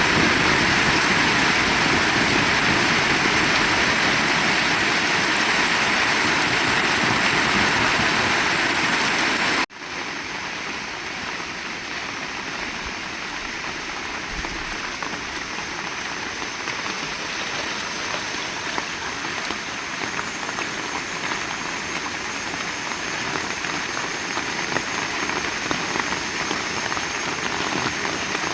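Heavy rain falling as a steady hiss. About ten seconds in it cuts off suddenly to a quieter stretch of rain that slowly grows louder again.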